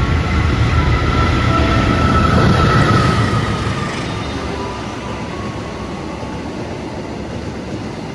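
Train passing at speed: loud rumble and rattle of wheels on the rails, loudest for the first three seconds, then easing to a steadier, quieter run as it moves away.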